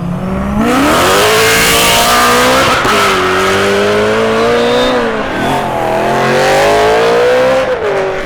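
Supercharged car engine at full throttle, accelerating hard. Its pitch shoots up about half a second in, then drops and climbs again about three times as it shifts up through the gears.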